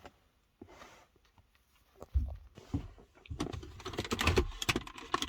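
Plastic interior trim of a car's centre console being worked loose and handled: a few faint clicks, a thump about two seconds in, then a dense run of irregular plastic clicks and rattles.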